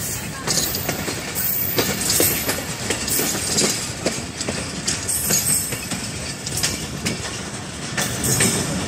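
Train running over the rails, heard from aboard a moving coach: a steady rumble and rattle with irregular clacks of the wheels over rail joints.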